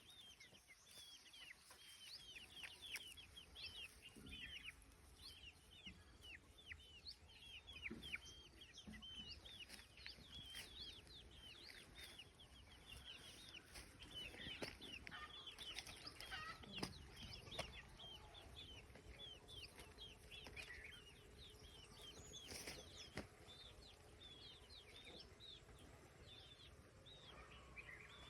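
A flock of young chicks peeping continuously, many short high peeps falling in pitch and overlapping, with a few faint knocks.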